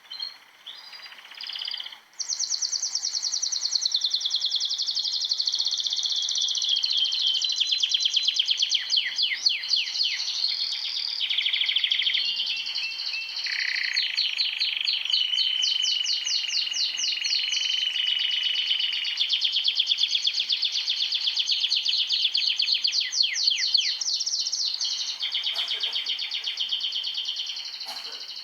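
A chorus of many small birds chirping and trilling together in rapid, overlapping runs of high notes, starting suddenly about two seconds in.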